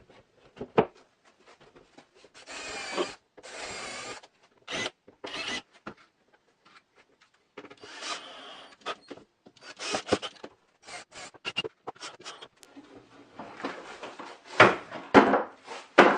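Wood being worked by hand in short rubbing or scraping strokes, each about half a second to a second long, with sharp knocks and clatter in between. The loudest knocks come about a second in and twice near the end.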